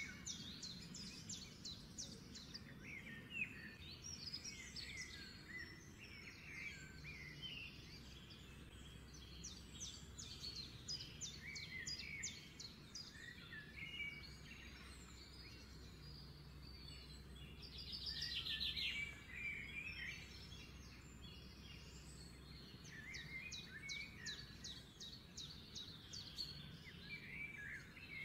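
Small birds chirping, with short rapid trills recurring every few seconds, the loudest a little past the middle, over a faint steady low hum.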